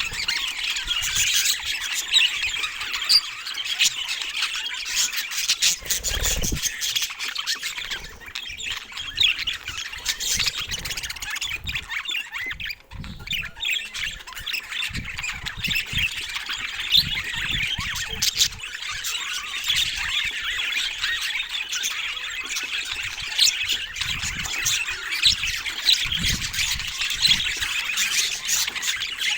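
A flock of budgerigars chattering, with dense overlapping chirps and squawks and a brief lull partway through. Occasional soft low thumps sound beneath the calls.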